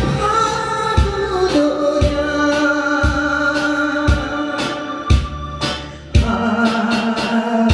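A singer sings a slow Korean song over musical accompaniment, holding long notes, with a drum beat about once a second.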